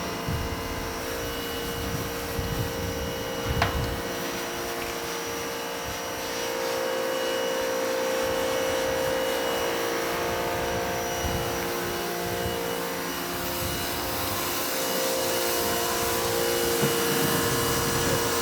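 A small electric motor running steadily with a constant whine, as from a power tool or workshop vacuum, with faint rubbing against the work.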